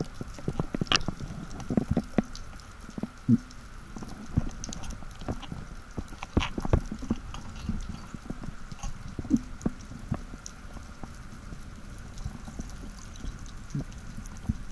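Irregular clicks and knocks heard underwater, several a second, from a spearfisher's gear and hands working near the rocky seabed, over a faint steady hum.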